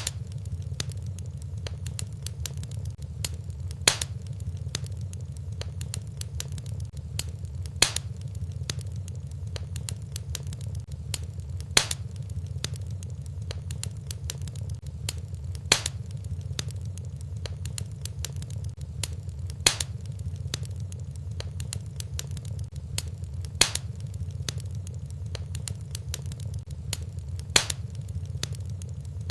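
Fireplace fire crackling over a steady low rumble, with faint ticks throughout and a sharper, louder pop about every four seconds at even spacing.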